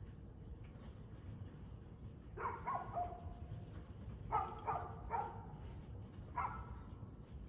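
A dog barking in three short runs: two barks about a third of the way in, three quick barks a little past the middle, then one more near the end. Under the barks is a steady low background rumble.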